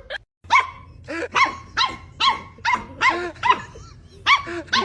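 A dog barking over and over, about two barks a second, starting about half a second in.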